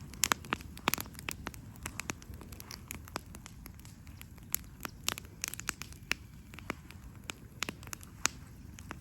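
Wood campfire crackling, with irregular sharp pops and snaps from the burning wood over a low steady rumble.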